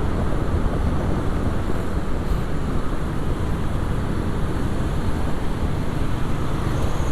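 Steady rushing wind on the microphone of a camera on a moving motorcycle, mixed with the motorcycle's engine and tyre noise on the road.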